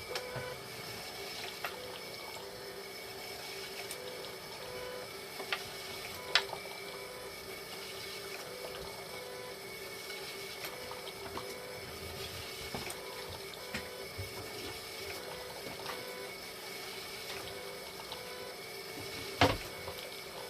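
Hemodialysis machine running: steady pump hum and water flowing through it, with a regular pulsing tone and scattered clicks. Two sharp clicks stand out, one about six seconds in and one near the end.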